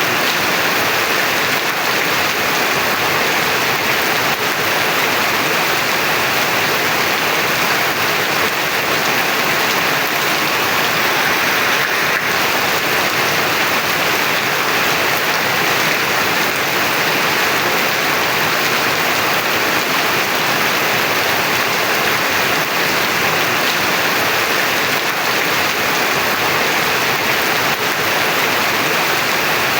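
Heavy rain pouring down steadily, a dense even hiss of falling water with no breaks.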